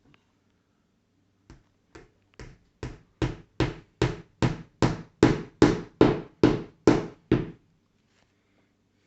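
Hammer driving a small nail into a wooden kit piece: a run of about seventeen strikes, two to three a second, starting as light taps and growing louder, then stopping.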